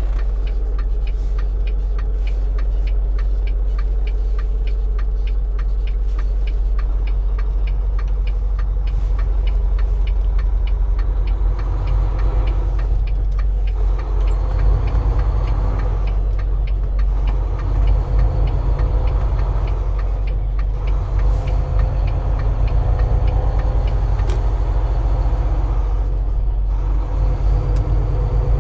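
Steady low engine drone and road noise inside a Volvo semi-truck's cab while driving, with fine rapid ticking or rattling over it.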